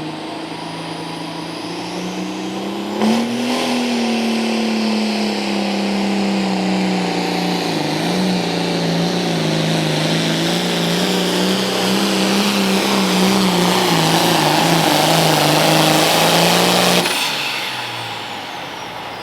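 John Deere 4450 tractor's diesel engine under full throttle on a pull. The engine note jumps up sharply about three seconds in, then holds loud with the pitch slowly sagging under the load. It drops off abruptly near the end.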